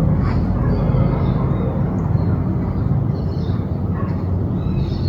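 Steady low rumble, like distant traffic or an engine, with faint, scattered squawks of maritaca parakeets over it.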